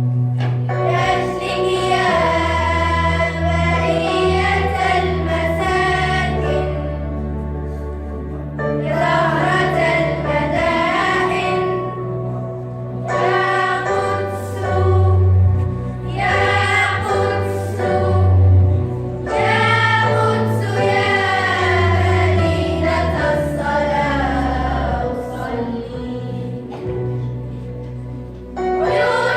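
Children's choir singing an Arabic nasheed in phrases several seconds long with short breaks between them, over a backing of sustained low bass notes.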